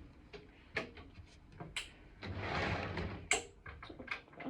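Small clicks and knocks from model train rolling stock and track being handled, with a brief rustling hiss about two seconds in.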